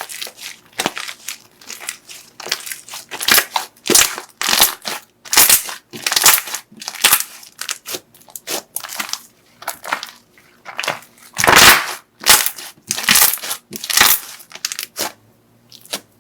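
Slime being squeezed and pressed by hand: an irregular run of crisp, crushing squishes, about one or two a second, the loudest about two-thirds of the way through.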